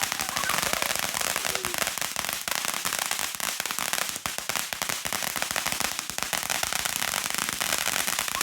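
Consumer firework crackling continuously, a dense run of rapid small pops and crackles that keeps going without a break.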